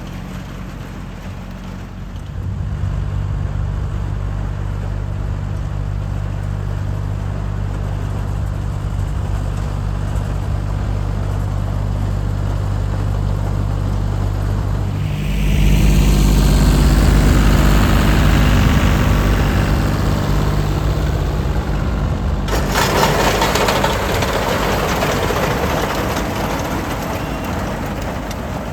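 Farm tractor's engine running with a hay mower in tow. It steps up in level about two seconds in and gets louder and deeper about 15 seconds in, joined by a rushing noise that grows fuller about 22 seconds in, as the mower cuts the cover crop.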